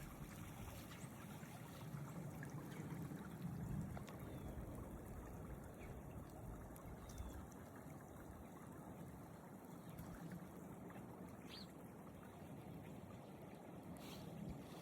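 Faint, steady trickling of water, with a few light ticks.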